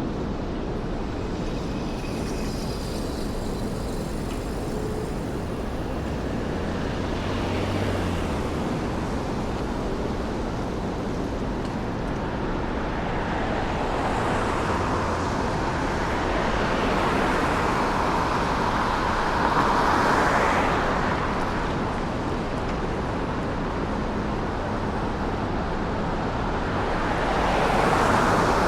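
City street traffic: a steady wash of road noise with cars passing, swelling as vehicles go by about two-thirds of the way through and again near the end.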